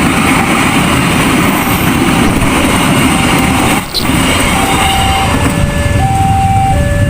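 Road traffic at a railway level crossing: trucks and motorcycles running steadily. From about the middle, an electronic crossing warning alarm comes in, alternating between a higher and a lower tone about every half second and growing louder toward the end.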